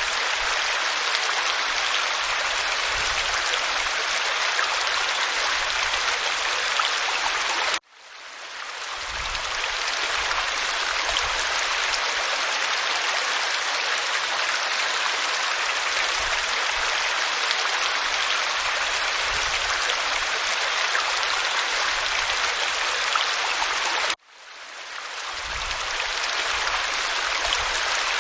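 Waterfall water rushing over rock in a steady hiss. It cuts out abruptly twice and swells back within a second or two.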